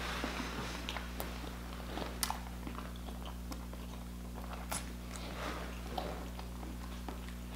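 A person chewing a mouthful of food with the mouth closed, close to the microphone: soft wet mouth sounds with scattered sharp smacks and clicks.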